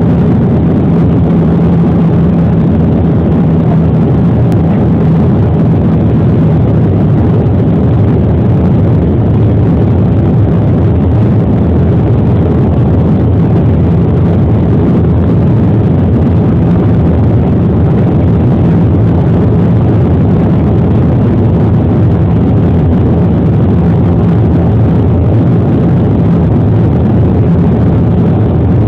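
Airliner cabin noise during the approach to landing: a steady, loud drone of jet engines and rushing air with a low hum.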